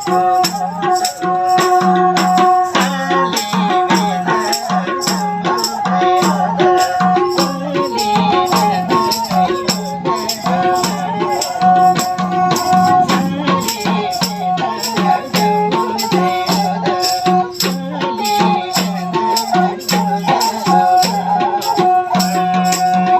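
Nepali folk music: a sarangi plays a melody over a steady low drone, with a regular percussion beat of sharp rattling strokes.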